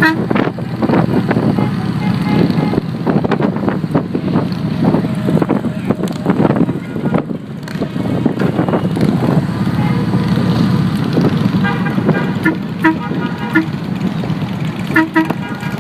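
Many motorcycle engines running in a large procession, with wind noise, and short horn toots sounding several times in the second half.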